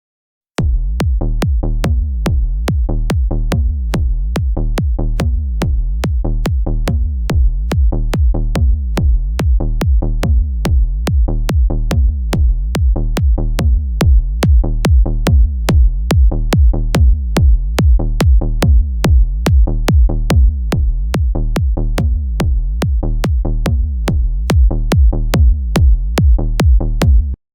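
Electronic kick drum hitting alone in a steady four-on-the-floor pulse, about two hits a second, each with a quick downward pitch sweep into a long deep boom, run through the Super Kick kick-processing plugin. It starts about half a second in and cuts off abruptly near the end, with the hits punching out more sharply through the middle.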